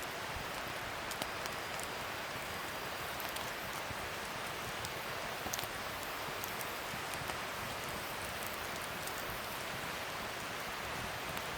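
Wood fire burning: a steady hiss with a few scattered sharp crackles and pops.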